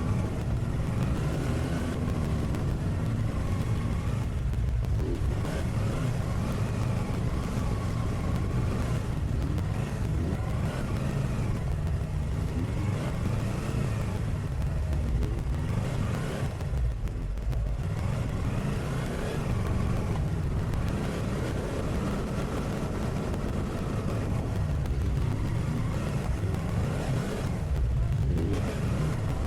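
Motorcycle being ridden on the road: the engine runs with pitch drifting up and down as the revs change, under a constant low wind rumble.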